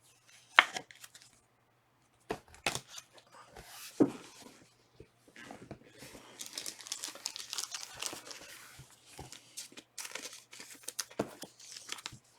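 Foil trading-card pack wrappers being torn open and crinkled, with scattered sharp clicks and taps from handling the packs and cards; the crinkling is densest and longest in the middle.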